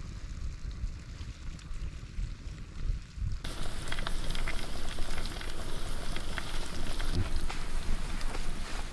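Turkey sizzling and fire crackling in a fire-heated rock oven: a steady crackly hiss with scattered small pops, muffled under a low rumble for the first few seconds, then clear.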